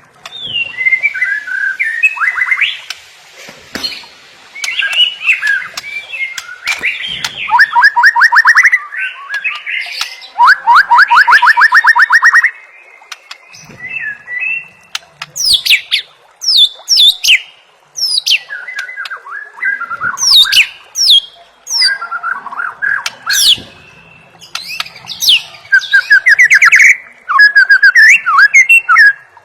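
White-rumped shama (murai batu) singing a loud, varied song: rapid chattering trills in the first half, then a run of sharp falling whistles mixed with other phrases.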